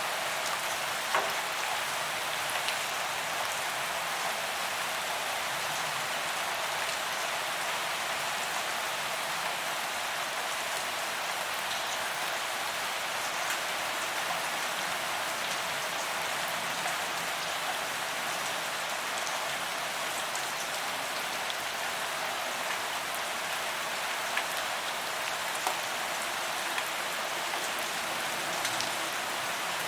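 Steady rain falling on a paved walkway, an even hiss with occasional louder drop splats.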